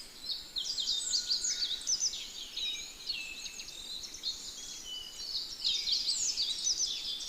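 A flock of birds chirping at once, a dense chorus of quick, high, overlapping chirps.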